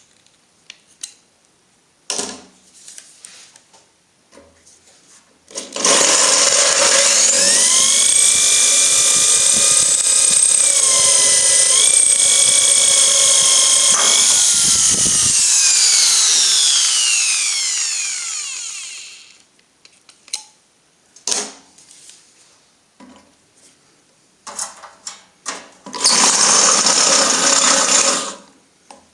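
Power drill drilling the heads off damaged steel socket screws. One long run of about thirteen seconds, its whine dipping briefly under load, then falling as the drill winds down. Clicks of handling follow, then a second short burst of drilling near the end.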